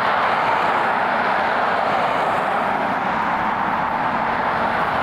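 Jet airliner's engines giving a loud, steady rush of noise.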